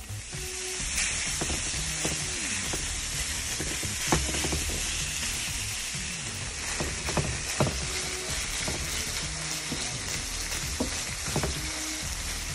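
Chopped onion and celery, then ground beef, sizzling in oil in a frying pan: a steady high hiss, with sharp clicks and scrapes of a utensil stirring against the pan now and then.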